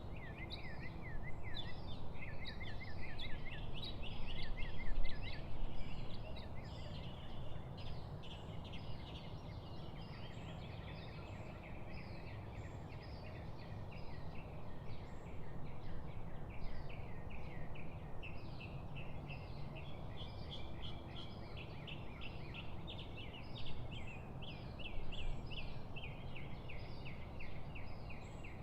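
A chorus of birds chirping and singing, many quick repeated high notes overlapping, over a steady low outdoor rumble. It is busiest and loudest in the first few seconds.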